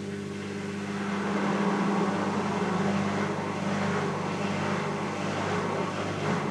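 Electrolux washing machine in its spin cycle, a steady loud hum with a rushing noise over it that swells a little in the first couple of seconds. The uploader puts the rough, uneven spin noise down to ball bearings wearing out after years of use.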